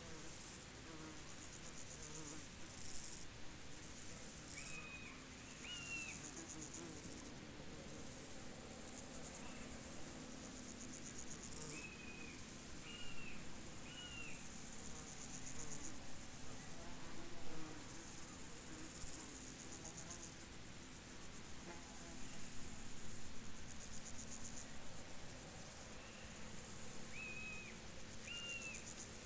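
Field insects trilling, with high-pitched buzzing trills that swell and fade in bouts. Short high chirps come in twos and threes a few times, over a faint steady low hum.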